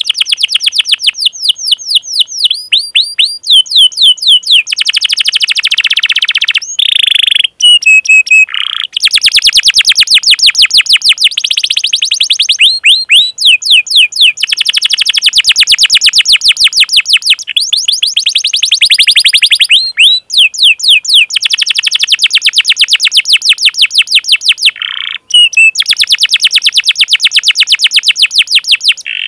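Domestic canary singing long rolled trills of rapid, evenly repeated falling chirps, broken by short pauses and a few longer single notes.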